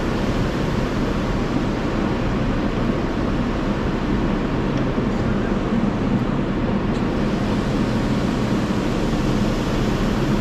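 Steady rushing noise of an automatic tunnel car wash heard from inside the car's cabin, at the spot-free rinse stage of the wash.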